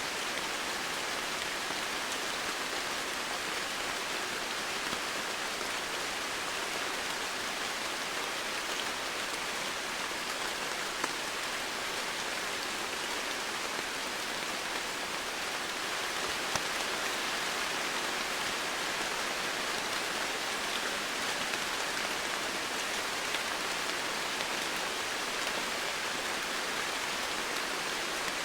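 Steady rain falling, an even hiss of drops on surfaces with occasional separate drop ticks.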